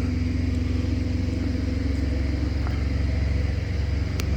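An engine idling steadily with a low, even throb, with a couple of faint clicks near the end.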